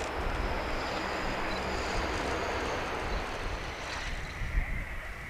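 Jet aircraft flying past: a broad, steady jet roar with a faint high turbine whine, easing off about four seconds in.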